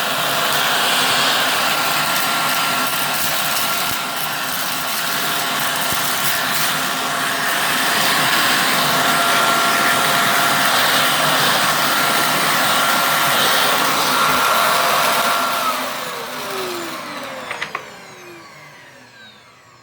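Bagless cyclonic vacuum cleaner running at full suction with a steady whine, then switched off about three quarters of the way through, its motor winding down with a falling whine.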